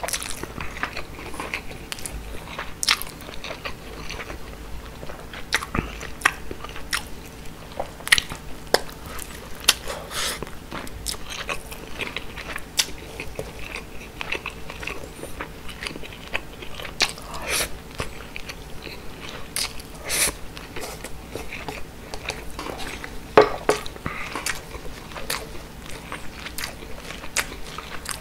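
Close-miked chewing of grilled mackerel and rice, with frequent irregular sharp clicks and crunches.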